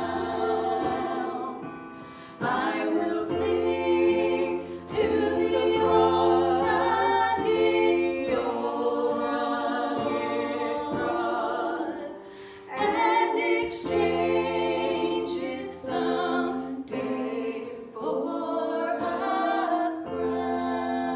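Choir singing a worship song in harmony, phrase by phrase with short breaks between the phrases.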